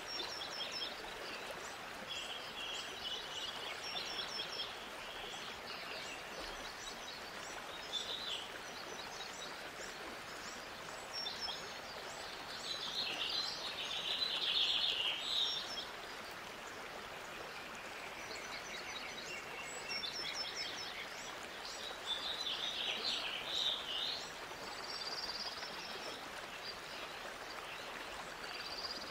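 Several birds singing and chirping, with quick repeated trills, over a steady background hiss; the calls are busiest about halfway through.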